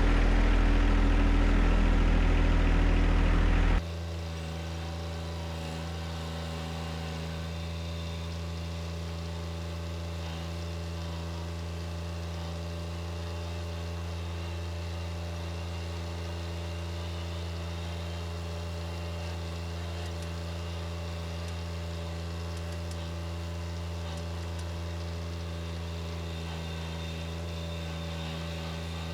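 John Deere 1025R compact tractor's three-cylinder diesel engine running steadily. It drops suddenly to a lower, even level about four seconds in.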